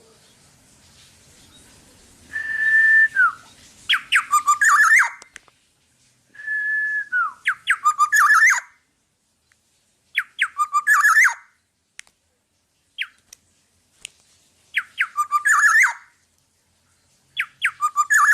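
Black-naped oriole (kepodang) singing. It gives short phrases of clear, fluting whistles every two to three seconds, and some open with a held note that then drops.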